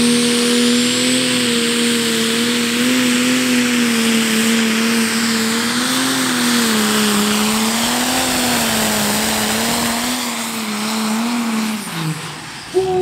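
Pro Stock single-turbo diesel pulling tractor running flat out under load: a loud, steady engine note whose pitch wavers slightly, over a heavy rush of turbo and exhaust noise. Near the end the revs fall away and the sound breaks off abruptly.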